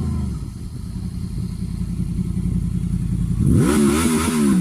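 Honda VFR 800's V4 engine idling steadily, then revved hard once about three and a half seconds in, the pitch climbing sharply and dropping back toward idle near the end.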